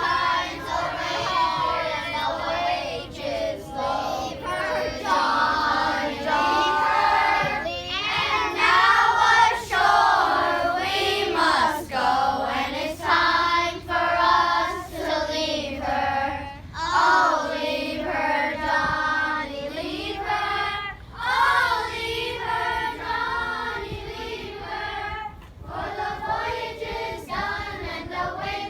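A group of children singing together in unison, one song that carries on without a break.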